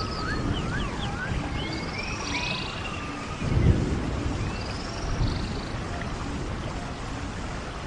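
Rainforest ambience: a steady rain-like hiss with animal calls, quick whistled glides rising and falling, in the first few seconds and again near the middle. A short low rumble comes about three and a half seconds in.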